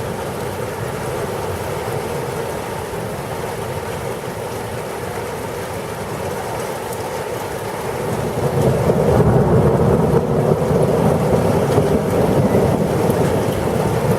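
Heavy rain falling steadily, with a low rumble of thunder swelling about eight seconds in and rolling on.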